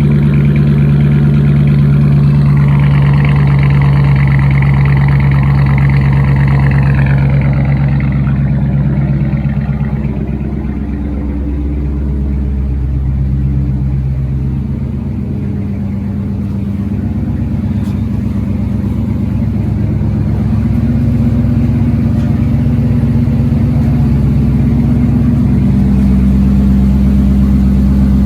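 Modded 2015 Dodge Challenger's V8 running at a steady cold-start idle in below-freezing temperatures. The note is fuller for the first seven seconds or so, then settles into a lower, even idle.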